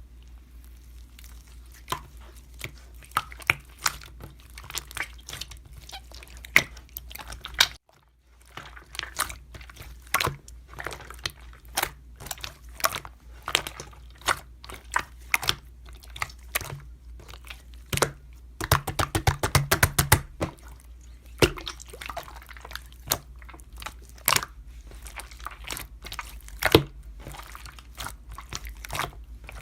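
Irregular sharp clicks and crunches, with a quick run of rapid clicks about two-thirds of the way through, over a steady low hum.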